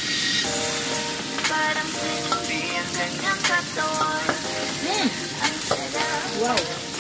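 Fish sizzling as it fries in oil in a wok, with a metal spatula scraping and clicking against the pan as the pieces are turned. A background music track plays underneath.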